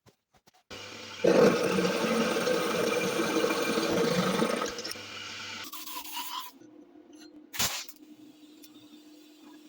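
An electric motor runs with a low hum while something is ground or sanded against it, giving a loud, rough scraping for about three and a half seconds. The scraping then fades as the machine winds down, and a single sharp click follows.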